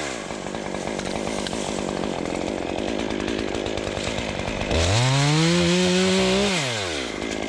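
Two-stroke chainsaw idling with a fast, even ticking. About five seconds in it is revved to full throttle for a second or two, then drops back to idle.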